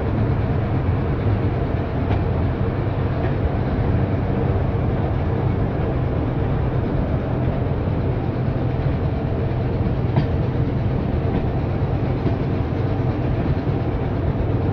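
Heritage railway passenger carriage running along the track: a steady rumble of wheels on rail, with one small knock about ten seconds in.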